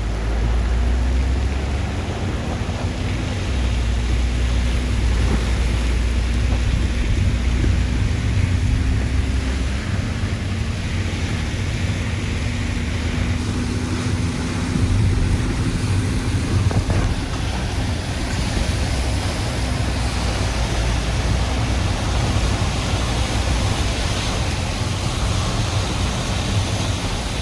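Steady rush of typhoon rain and wind with a deep low rumble. A low engine hum runs under it through the first half, fading out about halfway.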